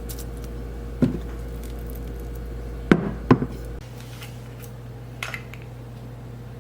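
Kitchen things being handled on a counter: a knock about a second in, then two sharp knocks close together about three seconds in and a faint clatter later, over a low steady hum that drops away just after the knocks.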